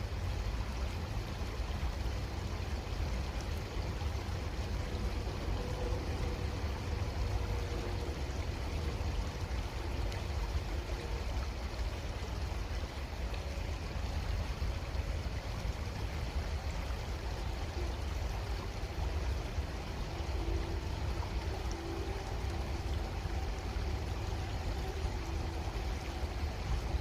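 Creek water running steadily, an even rushing with a low rumble underneath.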